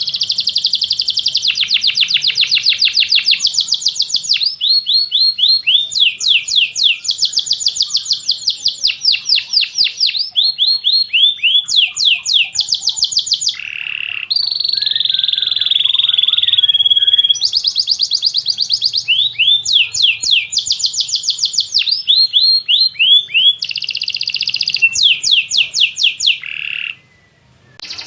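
Domestic canary singing a long, continuous song of rapid trills: fast runs of repeated high notes that switch speed and pitch from phrase to phrase, with a brief pause near the end.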